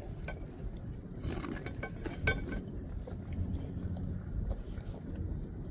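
A few light hammer taps on roofing nails, driving them into asphalt shingles, the sharpest about two seconds in.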